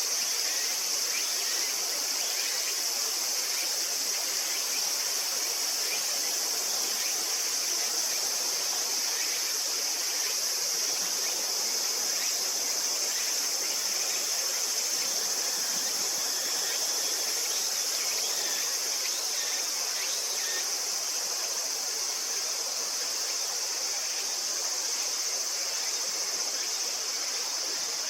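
Steady high-pitched insect chorus over the constant rush of a river stream.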